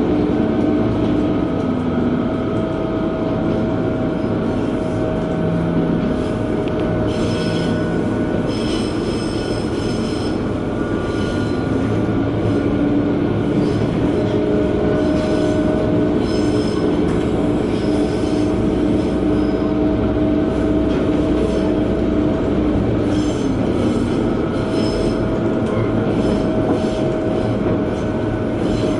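KiHa 120 diesel railcar running on the Sankō Line, heard from inside the car: steady engine and rail noise, with the engine note stepping up about twelve seconds in and dropping again a little over twenty seconds in. Wheels squeal high-pitched in several spells as the car takes curves.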